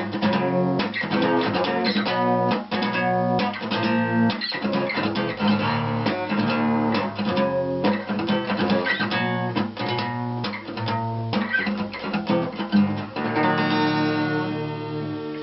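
Acoustic guitar strummed in a quick, steady rhythm, closing on a chord left ringing for the last couple of seconds.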